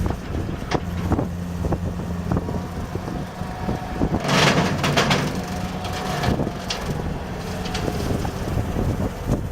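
Skid steer engine running steadily with a 72-inch brush cutter attachment, with scattered knocks and clatter and a louder rushing noise from about four to five and a half seconds in.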